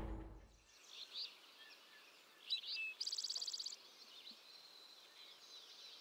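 Faint wild birdsong: scattered high chirps, with a fast, even trill lasting under a second about three seconds in, and more short calls near the end.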